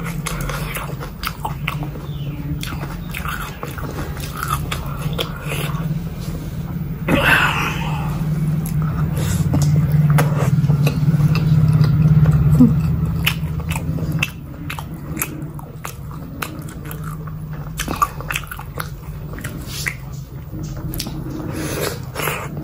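Close-miked chewing of steamed chicken momos, with many small wet mouth clicks and a louder, longer mouth noise about seven seconds in.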